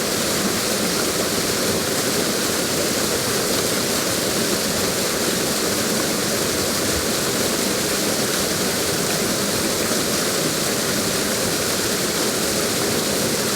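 Waterfall: water falling and splashing in a steady, unbroken rush, full of hiss.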